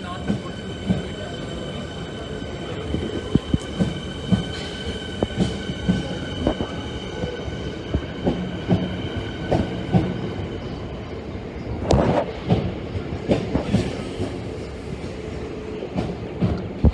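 Suburban electric train moving past the platform, its wheels clicking and knocking over the rail joints. A steady high whine runs under it and stops about ten seconds in, with heavier clattering about twelve seconds in and again near the end.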